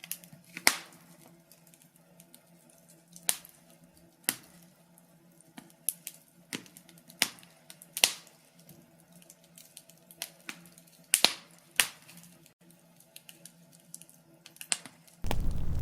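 Wood fire crackling: sharp, irregular pops and snaps over a faint background. Near the end it switches abruptly to a much louder, denser rush of fire noise.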